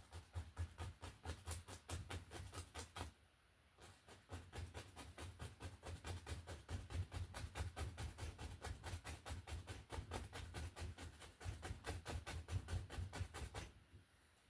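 Paintbrush dabbing and pushing oil paint onto a canvas in quick, even taps, several a second, building up tree foliage. The tapping stops briefly about three seconds in and again near the end.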